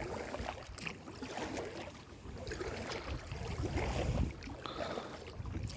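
Water moving and splashing against a kayak on a lake, with wind buffeting the microphone, the wind rumble growing stronger in the second half.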